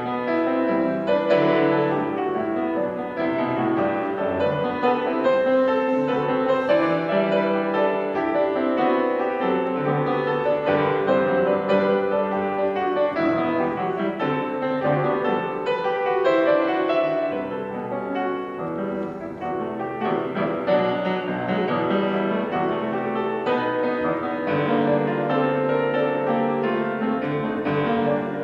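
Piano music, with many notes sounding together and no voices.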